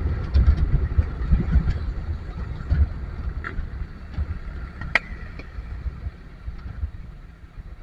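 Low vehicle engine and road rumble in slow traffic, fading toward the end, with a few light clicks and one sharper click about five seconds in.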